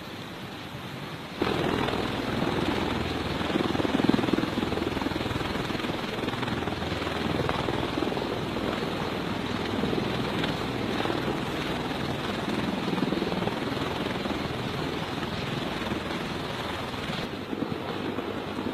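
Steady rushing noise with no clear rhythm or tone. It steps up abruptly about a second and a half in and eases slightly near the end.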